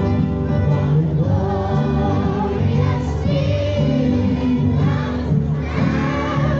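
Singing with vibrato over a musical accompaniment with held bass notes, from a live street performance of a song.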